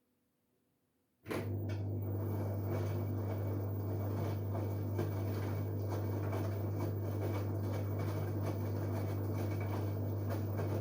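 LG Direct Drive 8.5 kg washing machine running mid-cycle on a dark wash: a steady low hum with a rushing, churning noise over it. It cuts in suddenly about a second in and stops just before the end.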